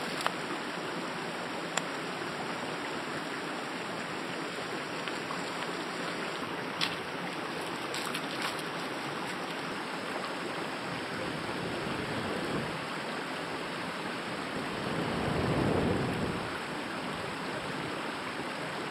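Steady rushing of flowing stream water, with a few faint clicks and a brief low rumble about three-quarters of the way through.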